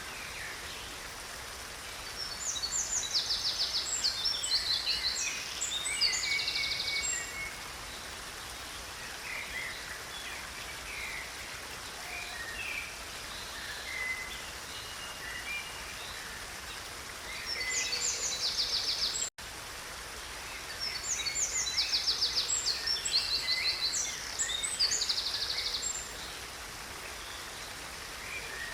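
Stream water running in a steady hiss, with songbirds singing bursts of quick trills and chirps three times, the longest lasting about five seconds. The sound drops out for an instant about two-thirds of the way through.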